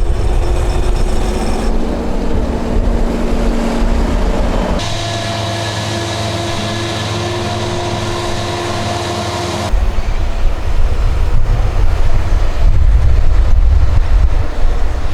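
Diesel engines of heavy harvesting machinery, a self-propelled forage harvester and tractors hauling silage wagons, running steadily under load. The sound changes abruptly about five seconds in and again near ten seconds, with a heavy low rumble in the first and last parts.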